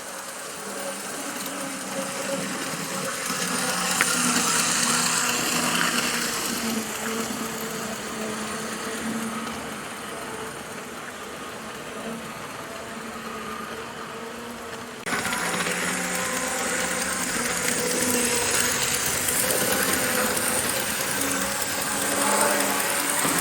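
Model train running on the track: the TYCO SD24 locomotive's small pancake motor whining steadily along with the clatter of wheels on rails, swelling as the train passes close and easing off again. The level jumps up abruptly about two-thirds of the way through.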